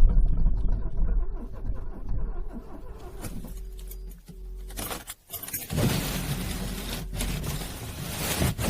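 Car engine cranking over in freezing cold, struggling to start: an uneven low rumble at first, then a louder, noisier stretch from about six seconds in.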